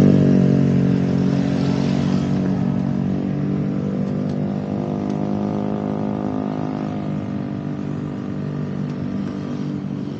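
Honda CBR250RR motorcycle with a DST full-system aftermarket exhaust running, its engine note steady and slowly fading as the bike rides away.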